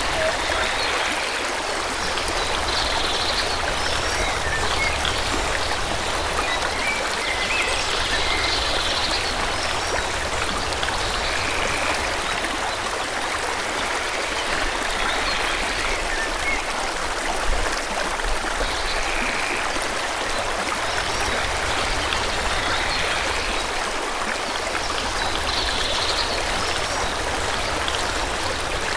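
Forest stream flowing steadily, with small birds chirping now and then over the water.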